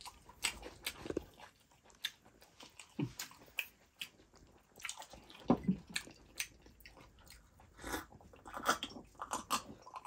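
Close-up eating sounds: chewing, biting and lip smacks, with irregular small clicks, from two people eating chicken and rice with their hands.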